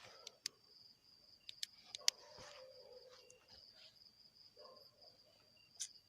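Night insects, cricket-like, trilling steadily in a high pulsing tone. Several sharp clicks or taps, the loudest about two seconds in and another near the end.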